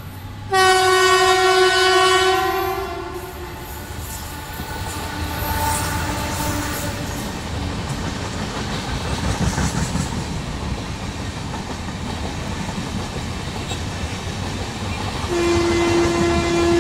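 An Indian Railways express train's locomotive horn sounds one loud blast of about two seconds near the start, then the train runs past with a steady rumble and clatter of coach wheels over the rails. A second horn blast starts near the end.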